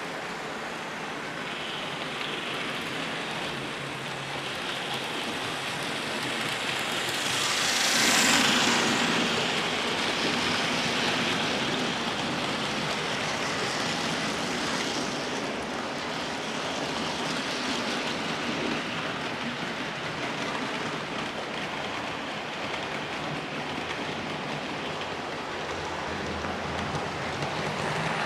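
00 gauge model Class 73 locomotives running along the layout track: a steady rushing rattle of wheels on rail and motors, swelling loudest about eight seconds in.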